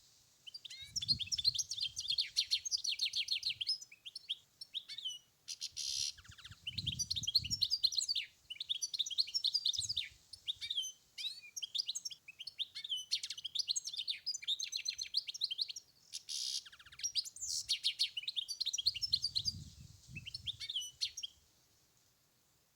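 European goldfinch singing: a long, near-continuous run of fast twittering phrases with short pauses, stopping about a second before the end. A few brief low rumbles sound underneath.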